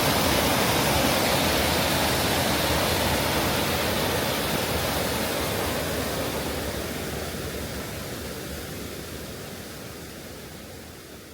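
Steady rush of stream water spilling over a small cascade, with no distinct splashes, fading away gradually over the second half.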